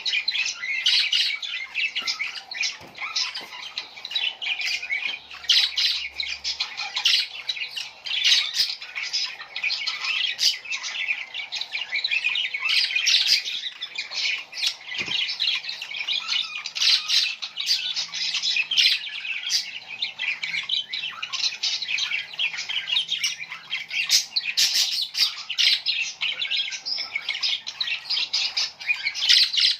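A flock of small birds chirping and squawking, many short calls overlapping in a continuous dense chatter.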